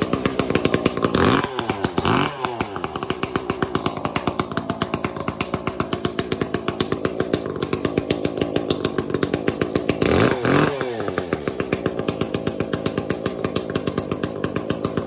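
Piped two-stroke chainsaw with a hammerhead exhaust pipe and no muffler, running loud. It idles with an even pulsing beat and is blipped up to high revs and back three times: twice in the first couple of seconds and once about ten seconds in. This is its first start, in cold weather, and it fired right up.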